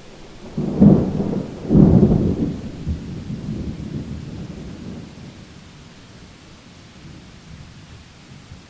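Thunder over steady rain: a close clap in two loud peaks about a second apart, then a low rumble that dies away over a few seconds.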